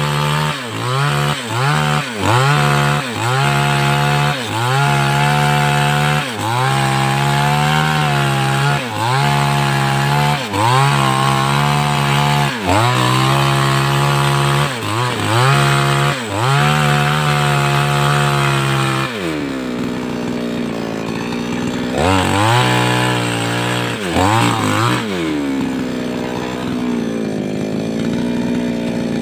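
588X two-stroke chainsaw cutting wood at full throttle, the engine pitch sagging and recovering about once a second as the chain bites. About 19 seconds in it drops to idle, revs up briefly twice, then idles.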